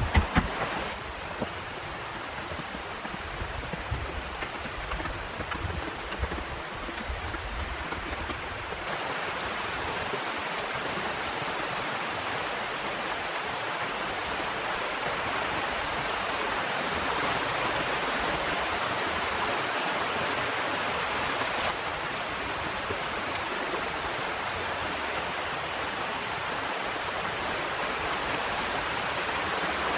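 Heavy rain falling in a steady hiss, with a few soft knocks in the first several seconds.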